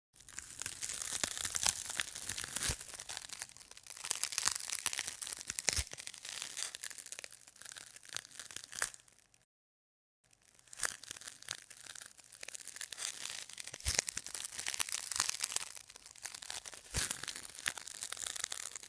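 Dense crackling and crunching noise with scattered sharp snaps, like something being crumpled or crushed. It plays as two takes of about nine seconds each, with a clean break of silence between them about halfway through.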